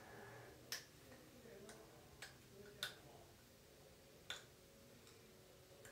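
Faint sharp clicks, about five over a few seconds, as a plastic floss pick's floss snaps through the tight gaps between teeth.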